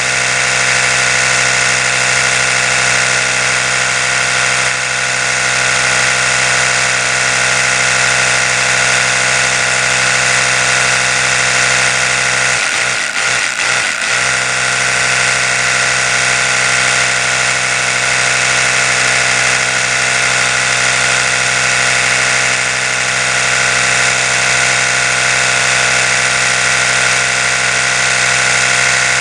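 Oral-B electric toothbrush running continuously: a steady motor hum with a bright buzzing hiss on top, briefly wavering about halfway through before settling back to its even drone.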